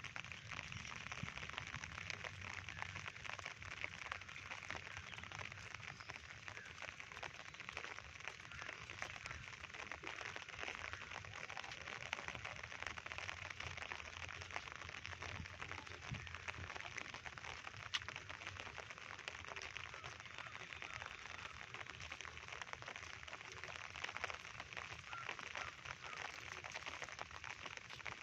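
Steady rain falling on surfaces, a dense, even patter of drops.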